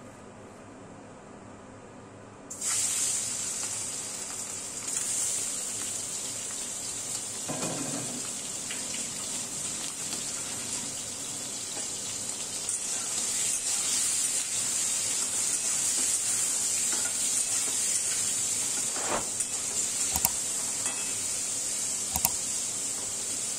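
Turmeric-marinated prawns sizzling in hot mustard oil in a kadai. The sizzle starts suddenly about two and a half seconds in and then holds as a steady hiss, with a few light spatula knocks against the pan near the end.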